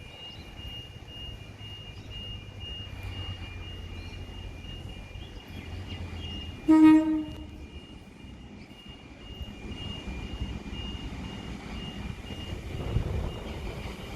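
A train horn gives one short, loud blast about halfway through, over a low steady rumble of rail traffic. The rumble builds again near the end as a train draws closer.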